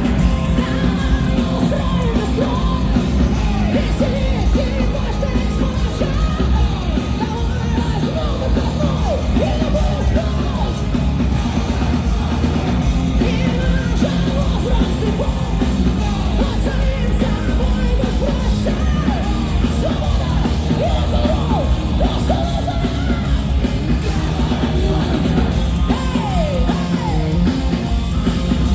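Live heavy rock band playing loud, with driving drums and distorted guitars under a singer shouting and singing the vocal line.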